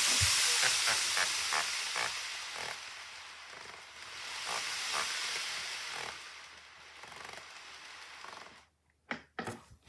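Model railway train running along the track: a steady hiss of wheels and motor with a run of light rail-joint clicks, fading away as it moves off. The sound cuts out near the end, followed by a few sharp clicks.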